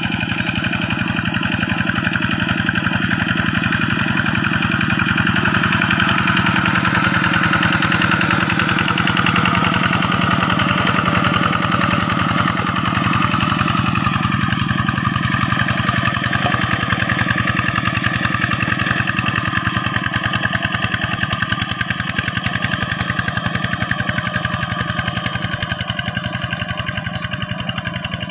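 Two-wheel hand tractor's single-cylinder diesel engine chugging steadily under load while ploughing, its note shifting slightly about halfway through.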